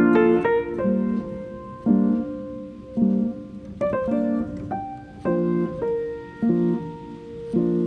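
Background music of piano chords, struck about once a second and left to ring.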